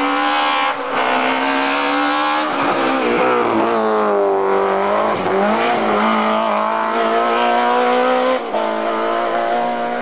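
Rally car engine at high revs, its pitch rising and falling as the car accelerates and lifts off, with short breaks at gear changes about a second in and near the end.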